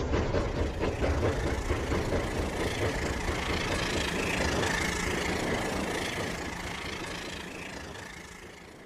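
Battery-powered toy train running on its plastic track, with a dense rattling motor-and-wheel noise and a steady whine, fading away over the last few seconds.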